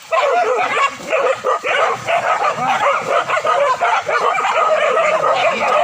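A pack of hunting dogs barking and yelping, many at once, in a dense, unbroken clamour.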